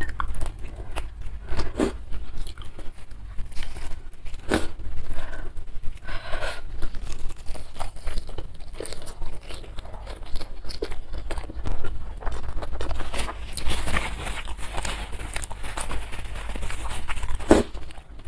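Close-miked eating by hand: leaves plucked off their stems and mouthfuls of raw greens and rice with sambal chewed, with many sharp crunches and wet smacking. The chewing grows busiest in the second half.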